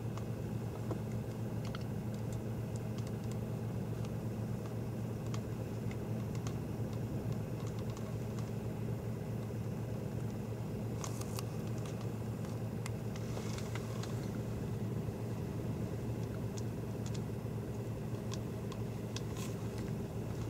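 Steady low hum of a vehicle, with scattered light clicks and ticks, a few clustered together about halfway through and near the end.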